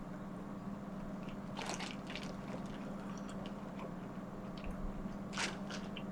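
Close-up eating sounds of seafood-boil food being bitten and chewed: wet squishing with crisp crunchy clicks, in two clusters about one and a half and five and a half seconds in, over a steady low hum.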